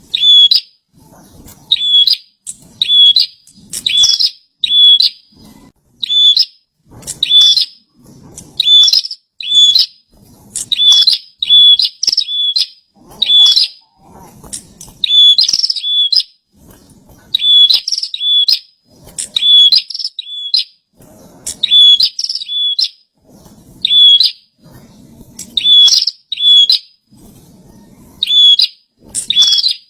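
A prinia (prenjak) singing vigorously: loud, short, sharp high calls repeated over and over, often in quick pairs and short runs with brief pauses between.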